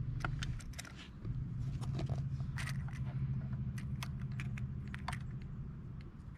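Scale-model garbage truck being handled, with rapid small clicks and scrapes of its parts, over a steady low hum that drops out briefly about a second in.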